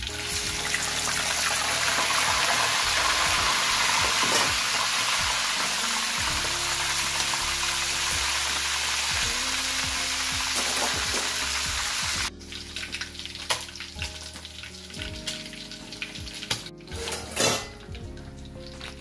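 Raw chicken livers frying in hot oil in a wok. A loud, steady sizzle as they go in drops suddenly about twelve seconds in to a quieter crackling and popping.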